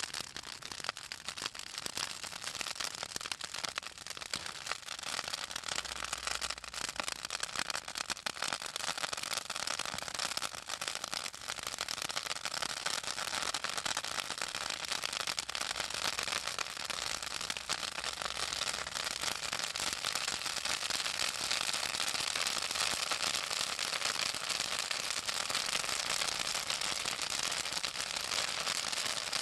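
Pruned southern magnolia branches burning in a bonfire, crackling with a dense, continuous run of snaps and pops from the oil in the wood and leaves. It grows a little louder in the second half.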